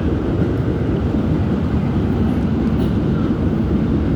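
R211S subway car in motion, a steady low rumble of wheels on rail, heard from inside the car.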